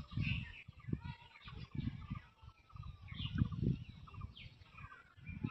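Small birds chirping and calling over a run of repeated low thumps and rumbles.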